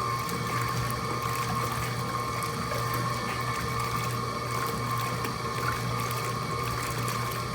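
Mueller Plus washing machine running with a steady motor hum and water moving in the tub.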